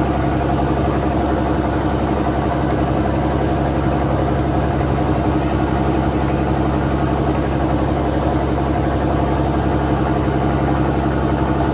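Fishing boat's inboard diesel engine running steadily, with an even, unchanging low drone.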